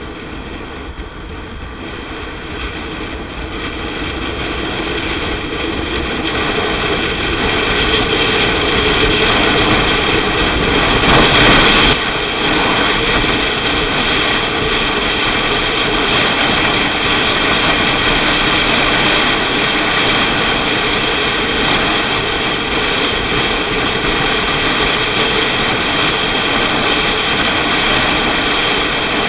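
Motorcycle riding on the road, its engine drone and wind rush growing louder over the first several seconds and then holding steady, with a brief louder rush about eleven seconds in.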